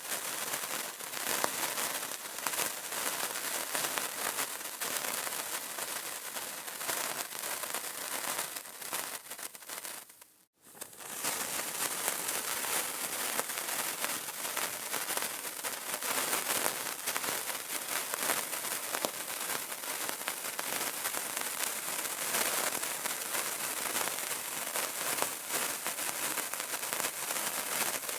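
Burning candle crackling: a dense, steady stream of small pops and snaps. It fades down and drops out completely for a moment about ten seconds in, then comes back.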